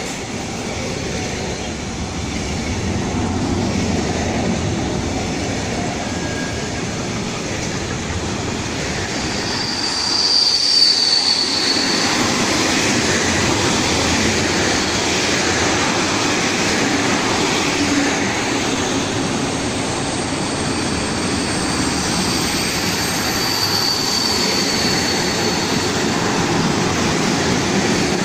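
Freight train wagons rolling past close by, the wheels running steadily on the rails. A brief high wheel squeal about ten seconds in, and a fainter one later on.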